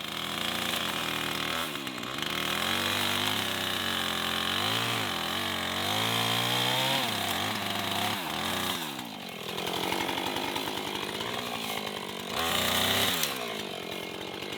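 Chainsaw cutting through hawthorn, its engine pitch dropping as it bogs down in the cut and rising again as it revs free, several times over; loudest near the end.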